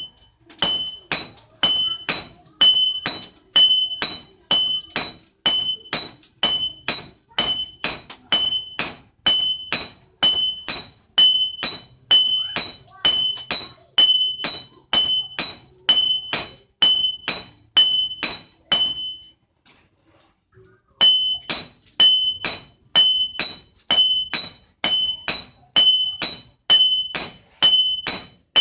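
Blacksmith's hand hammer striking steel on an anvil in a steady rhythm, about three blows a second, every other strike giving off a clear metallic ring, while forging leaf-spring steel into a machete blade. The hammering stops for about two seconds roughly two-thirds of the way through, then picks up again.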